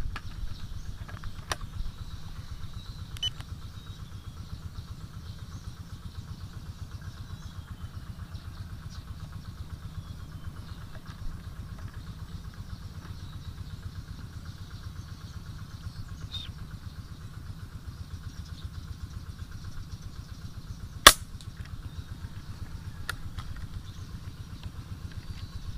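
An engine idles steadily with a low, evenly pulsing throb. About 21 seconds in there is a single sharp crack from an air-rifle shot.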